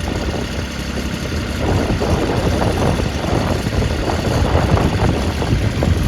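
International 234 compact tractor's glow-plug diesel engine running, growing a little louder and busier a couple of seconds in.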